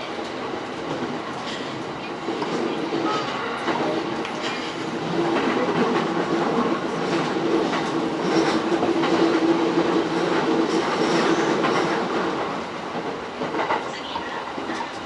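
E231-series commuter train running at speed, heard from inside its lead car. Wheels rumble steadily on the rails with a clickety-clack of rail joints, and a steady hum swells louder through the middle.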